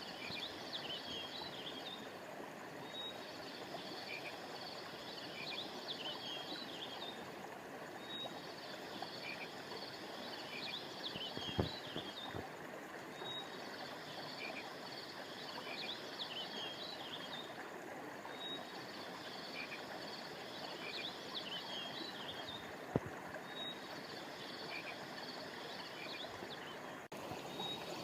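Steady rush of flowing stream water under a high-pitched frog chorus that trills in repeating bouts about every five seconds. Two sharp clicks stand out, one near the middle and one near the end.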